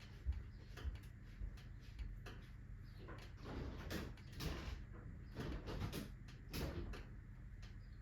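Wood fire of alder, birch and oak burning in a fireplace stove: irregular crackles and pops, thickest and loudest in the middle stretch, over a low steady hum.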